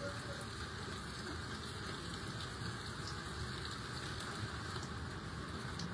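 Steady wash of rain falling outdoors, an even hiss with no distinct events.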